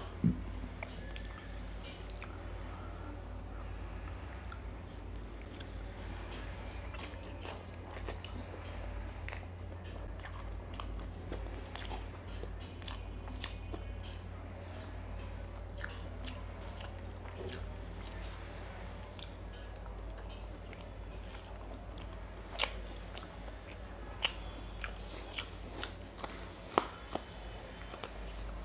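Close-miked eating sounds of a person eating mutton liver curry and rice by hand: chewing, wet mouth clicks and smacks, and fingers working the food on the plate. A steady low hum runs underneath.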